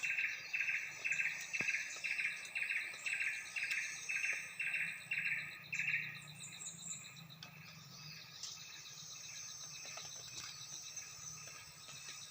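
A 'mantenan' songbird calling steadily, a quick run of repeated notes about three a second that stops about halfway through, then only fainter scattered chirps. A steady high insect trill runs underneath.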